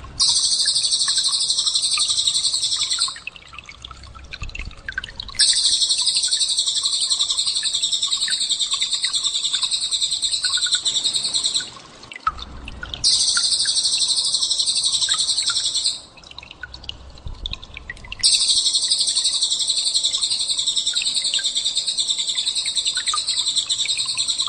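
Recorded songbird 'tembakan' calls, used as masteran for training a white-rumped shama: long, high, very rapid buzzing trills in four bursts of several seconds each. Short gaps between the bursts hold faint chirps and a low hum.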